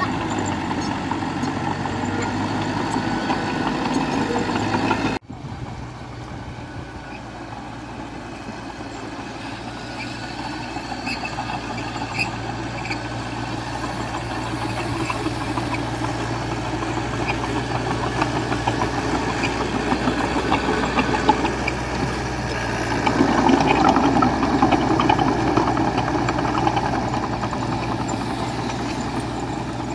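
Diesel engine of earthmoving machinery running steadily, with an abrupt cut about five seconds in. It grows louder near the end, from working harder or coming closer.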